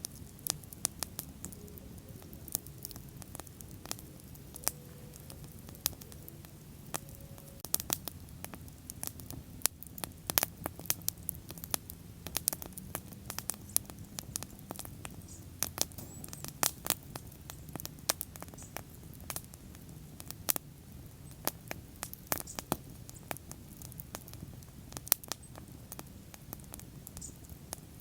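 Bonfire crackling: wood popping and snapping in many sharp, irregular clicks over a steady low rush of the burning flames.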